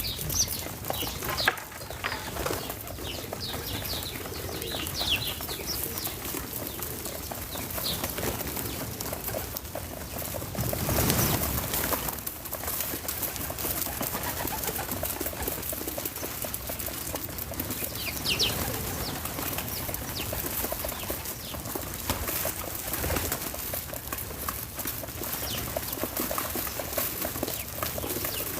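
Backyard ambience with wild birds calling: short high chirps scattered through, most in the first few seconds and again past the middle. There is a brief whoosh about eleven seconds in.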